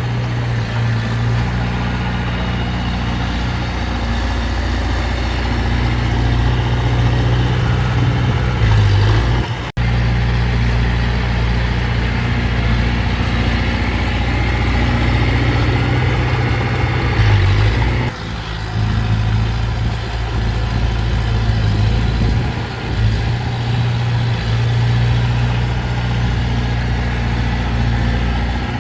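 Diesel engine of heavy earthmoving machinery running steadily, with a momentary break about ten seconds in and a change in its sound at about eighteen seconds.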